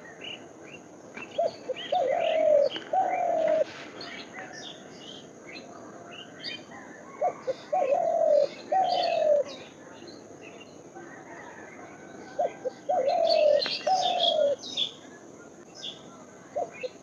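A dove cooing a phrase of one short note and two longer falling coos, repeated about every five seconds, with small birds chirping and twittering at a higher pitch throughout.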